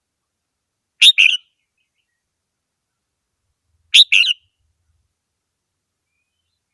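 Red-whiskered bulbul singing: two short phrases about three seconds apart, each a quick pair of notes.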